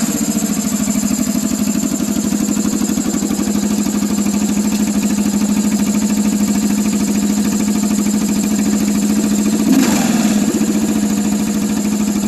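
Kawasaki KLR650's single-cylinder engine idling through an aftermarket exhaust, with a quick throttle blip that rises and falls in pitch about ten seconds in.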